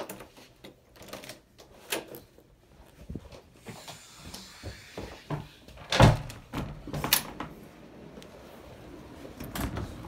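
A door being unlatched and opened: knob and latch clicks and knocks, the loudest knock about six seconds in. A faint steady outdoor hum comes up near the end.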